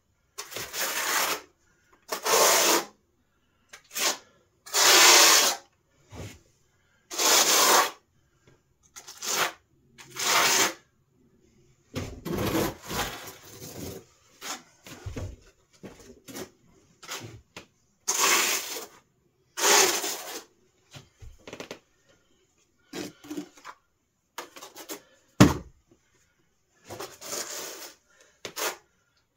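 Repeated rasping, scraping strokes of a hand tool, each about half a second to a second long with short pauses between. There is one sharp knock about 25 seconds in.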